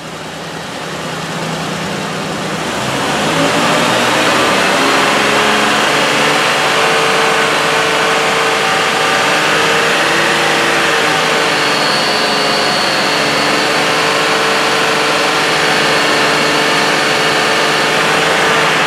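Car engine revved up over the first few seconds and then held steady at about 2,000 rpm, running under the extra alternator load as a carbon-pile tester pulls the battery down to 12 volts during an alternator output test.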